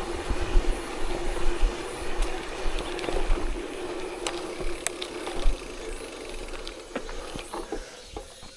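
Mountain bike rolling along an unpaved forest road: tyres crunching over gravel and the bike rattling, with scattered knocks and a steady hum. It eases off near the end.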